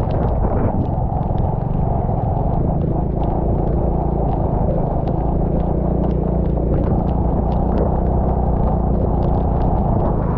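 Steady rumble of a vehicle travelling in the rain: a low engine hum under dense wind and road noise, with many small sharp ticks of raindrops hitting the camera.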